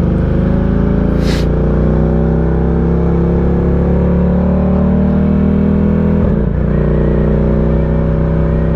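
Ducati Diavel 1260's V-twin engine pulling steadily under load, its pitch rising slightly over the first few seconds. There is a brief dip about six seconds in.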